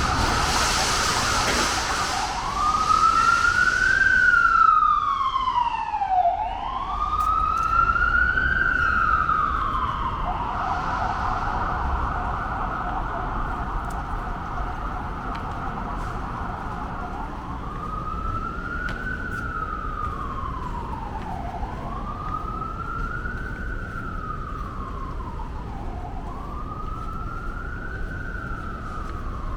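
Emergency-vehicle siren wailing on a city street, its pitch sweeping slowly up and down about every two to three seconds. It is loudest a few seconds in and then fades steadily as it moves away. A brief hiss comes in the first two seconds, over a constant traffic hum.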